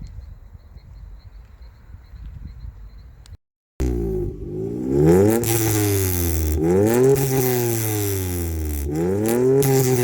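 Honda J32A3 3.2-litre V6 VTEC revved repeatedly through aftermarket headers and a 3-inch exhaust: after a low rumble, it starts abruptly a little under four seconds in and rises and falls in pitch about four times.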